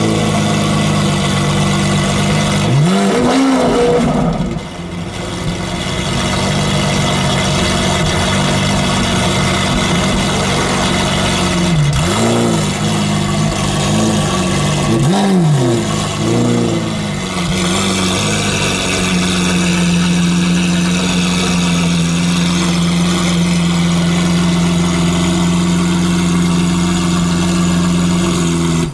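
Straight-piped Lamborghini Aventador SV's 6.5-litre V12 idling, loud. It is revved in a quick blip about three seconds in and in three more blips between about twelve and seventeen seconds, then settles into a steady idle.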